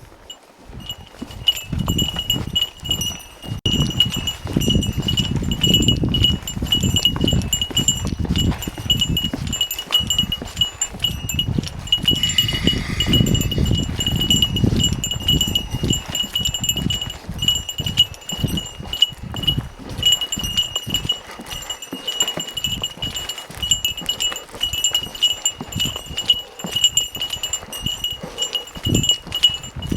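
A small metal bell, of the kind Japanese hikers hang on a pack to warn off bears, jingling in quick repeated rings with the walking motion. Under it are the thumps and rustle of footsteps on the trail.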